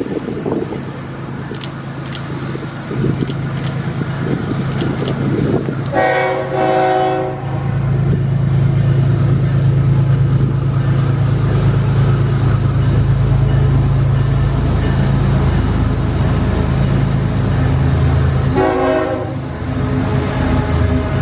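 Freight train led by two General Electric diesel locomotives sounding its air horn twice, a blast of about a second and a half and, some twelve seconds later, a shorter one, while the locomotives' diesel engines run loudly as they pass.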